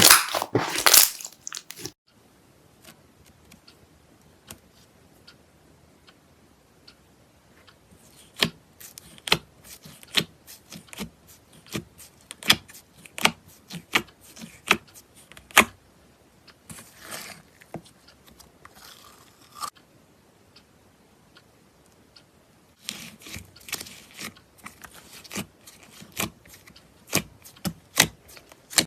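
Slime being squeezed and poked close to the microphone, making sharp crackling and popping clicks with a couple of soft swishes. The clicks stop abruptly about two seconds in and start again after a near-quiet pause, growing dense toward the end.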